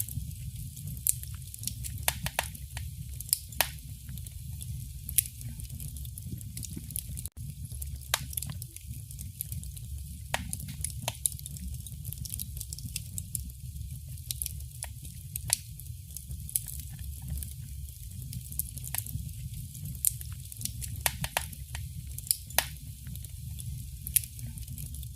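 Wood fire burning in a fireplace: irregular sharp crackles and pops, sometimes several in a second, over a steady low rumble.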